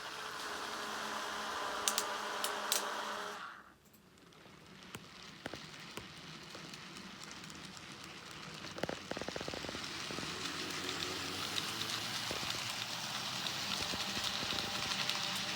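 Model railway trains running on the layout's track: a motor hum with a few sharp clicks for the first few seconds, then a crackly rolling noise of wheels on rails that slowly grows louder.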